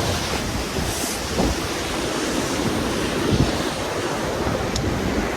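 Steady rush of a waterfall, with wind buffeting the microphone.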